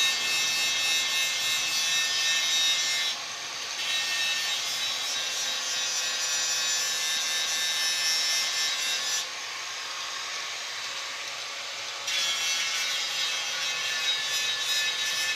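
Power sander or grinder abrading a metal fuel tank with a steady rasping whine, in long passes that ease off twice for a moment, about three seconds in and for a few seconds past the middle.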